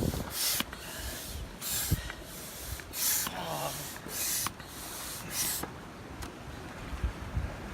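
Oars dipping and pulling through lake water from an inflatable rowboat: five even splashing strokes about a second and a quarter apart that stop about six seconds in.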